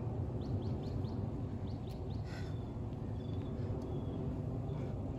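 Birds chirping in short, high notes in small runs, over a steady low background rumble, with a few faint sharp clicks.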